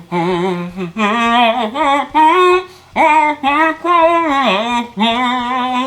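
A man singing a wordless melody with his mouth closed, humming in about five phrases of held, wavering notes that slide up and down in pitch.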